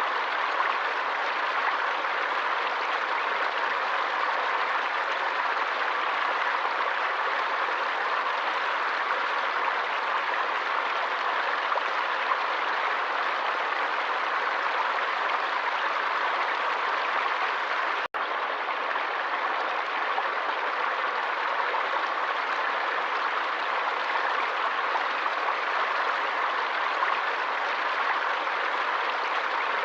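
Stream water rushing steadily, an even, unchanging flow, with a momentary cut-out about 18 seconds in.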